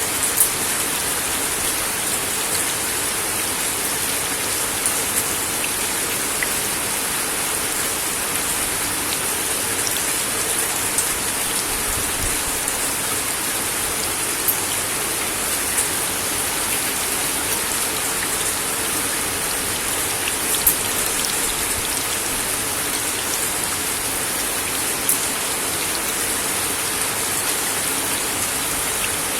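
Steady rain falling on a wooden deck, a constant hiss with scattered sharper drop taps on the boards.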